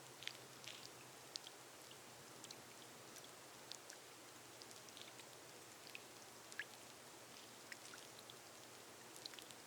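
Rain falling on a glass roof: a faint steady hiss with scattered individual drops ticking a few times a second.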